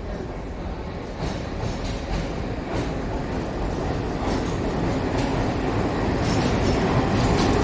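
Indian Railways train rolling through the station: a heavy rumble with wheel clacks over the rail joints, growing steadily louder as it draws nearer.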